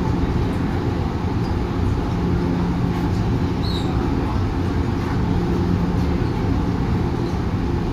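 Interior running noise of a JR 103 series electric train: a steady rumble of wheels and traction equipment, with a low hum that fades in and out every few seconds.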